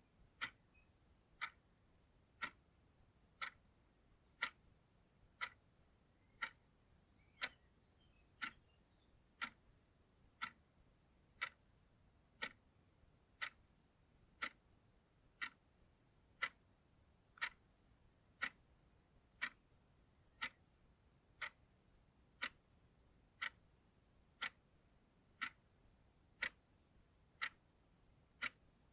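Clock ticking steadily, one short sharp tick about every second.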